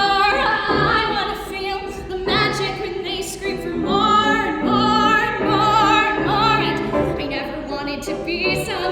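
A woman singing a musical theatre song in a full, classically trained voice, holding long notes with vibrato, with piano accompaniment.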